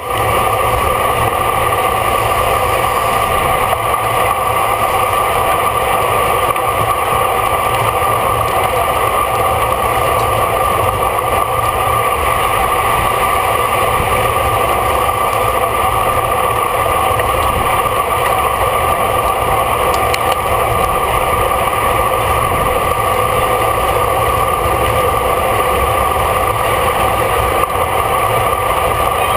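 Steady, loud rush of wind and road noise on a camera mounted on a racing bicycle riding at speed.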